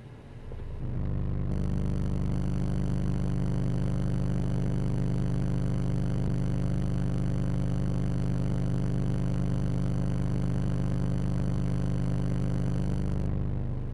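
18-inch car subwoofer playing a steady low bass test tone, with a buzz of overtones above it. It swells in about a second in and cuts off near the end.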